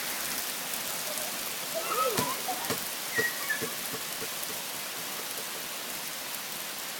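Heavy rain falling steadily, with a few sharper drop hits and short pitched sounds about two to four seconds in.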